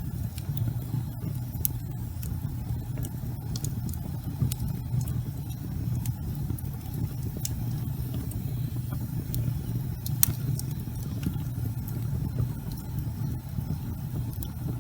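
Wood fire burning in a fireplace: a steady low roar of flames with frequent sharp crackles and pops scattered through it, one of the loudest about ten seconds in.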